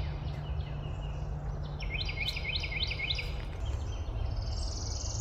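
A songbird singing a rapid run of about seven repeated chirping notes, heard once about two seconds in, then a higher buzzy trill toward the end, over a steady low rumble.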